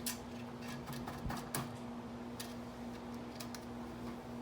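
Scattered light clicks and taps of wood being handled, over a steady hum.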